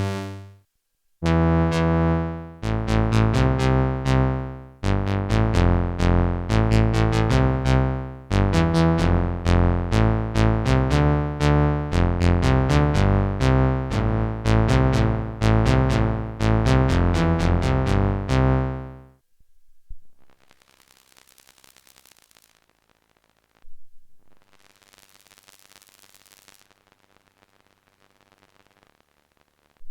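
Behringer JT-4000M synthesizer preset playing a fast run of short, bright, bass-heavy notes that stops about two-thirds of the way through. Only faint hiss follows.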